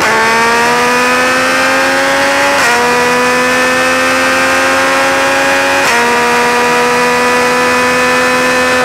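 A motorcycle's inline-three engine pulling hard at speed, its pitch climbing slowly, with two quick upshifts, about two and a half and six seconds in, where the pitch drops and climbs again. Wind rushes over the microphone.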